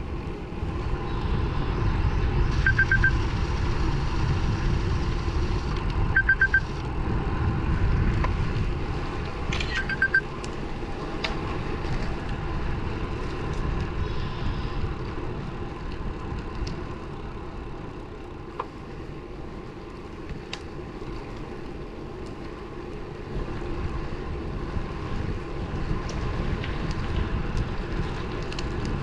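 Wind rushing over the microphone on a moving road bike, with road and tyre noise underneath, stronger in the first ten seconds and then easing. Three times early on a short burst of high electronic beeps sounds, each a quick triple.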